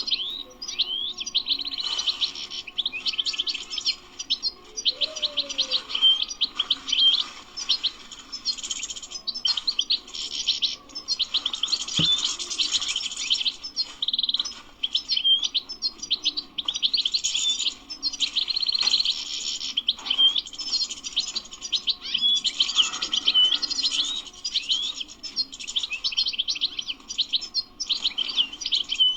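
European goldfinch singing: a fast, continuous run of twittering chirps and trills, high-pitched, with only brief breaks.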